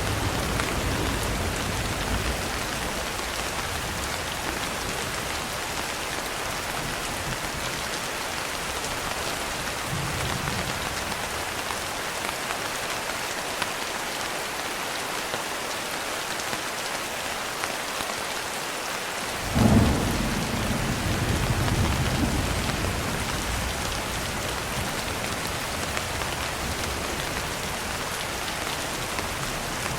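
Steady rain hissing, with thunder underneath: a low rumble dying away at the start, a faint one about ten seconds in, and a sudden louder thunderclap about twenty seconds in that rolls on for a few seconds.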